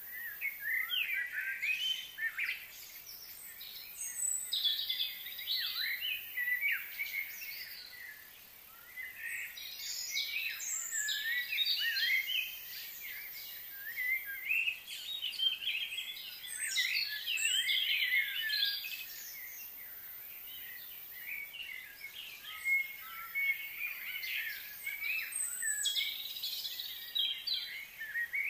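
Several songbirds chirping and chattering in bouts of quick, high, gliding notes, with short lulls between bouts.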